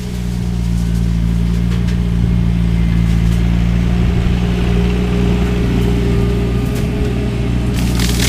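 Skid steer engine running steadily under load while driving a hydraulic shredder head, getting a little louder over the first second, with a faint higher whine partway through.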